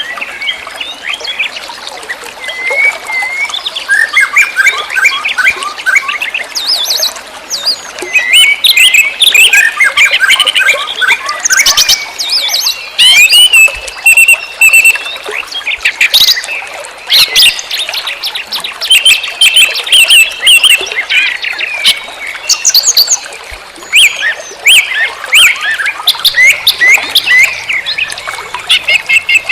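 Several birds chirping and calling at once, in dense, overlapping rapid chirps and trills.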